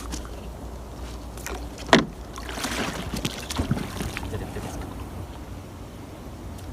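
Small wooden fishing boat being pushed along with a bamboo pole: water swishing around the pole and hull, with one sharp knock about two seconds in, over a steady low rumble.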